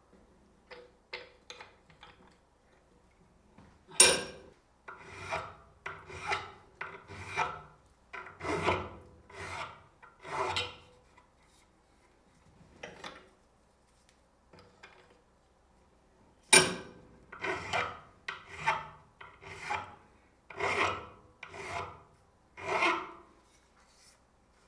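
Strokes of a hand file on metal, in two runs of about nine strokes each, a little under a second apart, with a pause between the runs.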